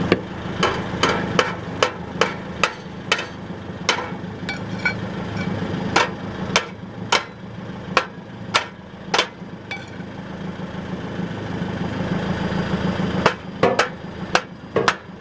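Sharp metallic knocks as a loose exhaust heat shield on a 2004 Nissan Sentra is banged to shift it out of rattling contact: a string of strikes about twice a second for roughly eight seconds, a pause, then a few more near the end. The car's engine idles steadily underneath.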